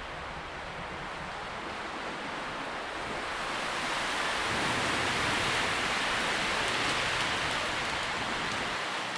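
Wind rustling through tree leaves, a steady hiss that swells in a gust about three seconds in and eases near the end.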